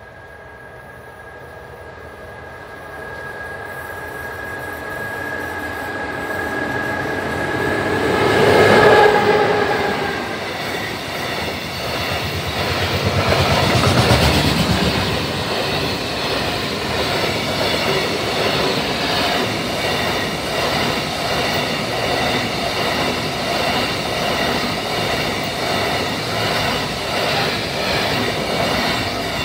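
Freight train passing close by at a level crossing. It grows louder over the first several seconds, with a steady high whine that stops as the front of the train passes, loudest about 9 s in. After that a long string of freight wagons rolls past with an even, rhythmic clatter of wheels over the rail joints.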